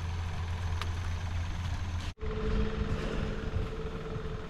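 Steady low hum of a boat motor running, cutting off abruptly about two seconds in. It is followed by a different steady motor hum with a thin whine over it.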